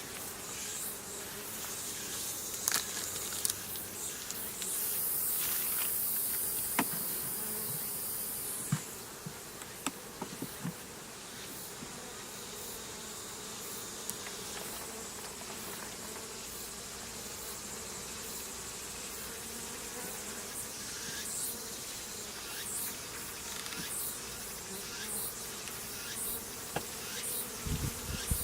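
Honeybee swarm buzzing in a steady hum. A loud hiss comes about five seconds in and lasts some four seconds, and there are scattered light clicks and knocks.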